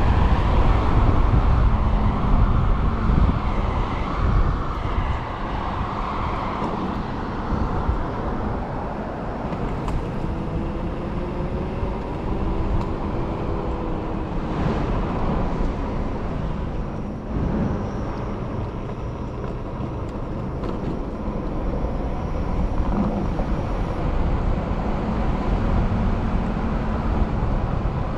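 Wind buffeting the microphone and road noise while riding an electric motorcycle at speed. A few faint whines rise and fall in pitch in the first half.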